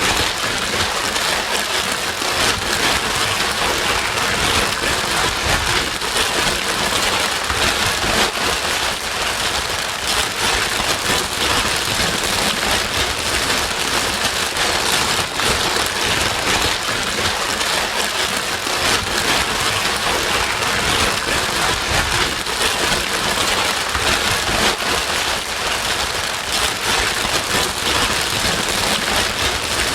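White noise with the sound of steady rain on a surface: an even, continuous hiss with a fine patter of drops, unchanging throughout.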